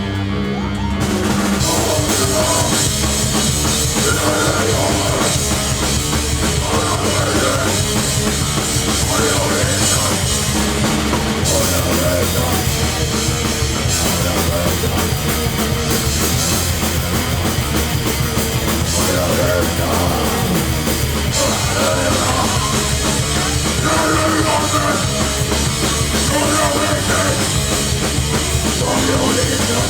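Hardcore punk band playing loud and fast, with distorted guitars, bass and a pounding drum kit with crashing cymbals. The full band comes in hard about a second in.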